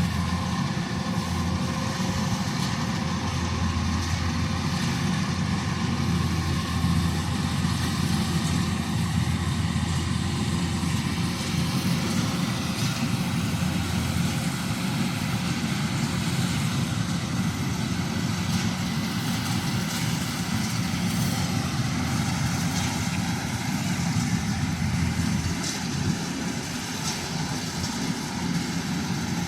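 Combine harvester's engine and machinery running steadily in a low drone, easing slightly near the end.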